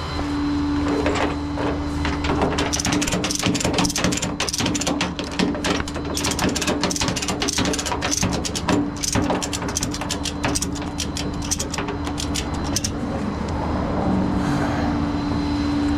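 Ratchet tie-down being cranked tight, a long run of rapid metallic clicks that stops a little before the end, over a steady hum.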